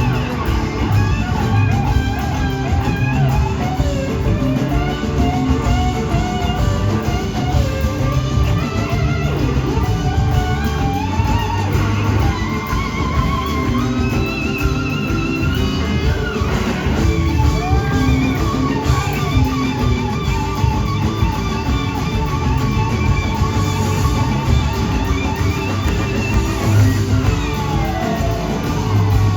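Live rock band playing an extended jam: electric guitar soloing over the full band, its notes bending and wavering.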